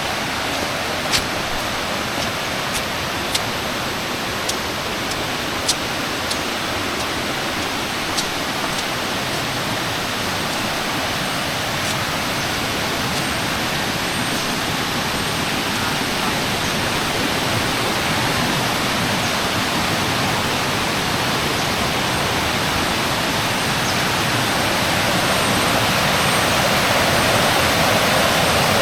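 Steady rushing of a rocky forest river and its small cascades, growing gradually louder near the end. A few sharp clicks sound in the first several seconds.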